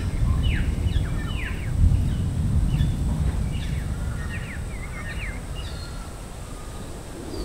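Birds chirping: many short, quickly falling chirps over a steady low rumble.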